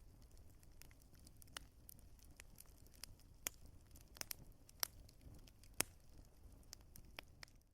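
Wood fire crackling, with irregular sharp pops and snaps of burning wood over a faint low rumble of the flames.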